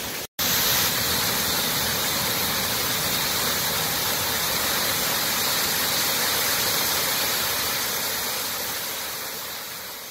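Rain-swollen waterfall gushing: a steady, full rush of falling water, cut off for a moment just after the start and fading out near the end.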